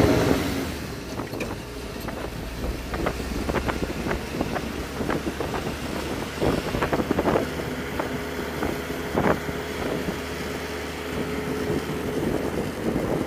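Amphicar running on the road, its rear-mounted four-cylinder engine turning over steadily, with wind buffeting the microphone in the open car.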